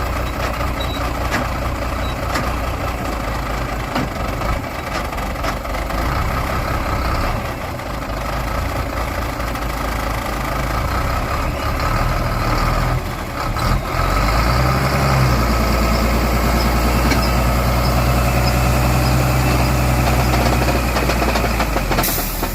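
Heavy truck's diesel engine labouring under load as it winches itself up out of the mud, growing louder and steadier about two-thirds of the way through. A sharp snap near the end is the winch cable breaking, just before the engine note drops.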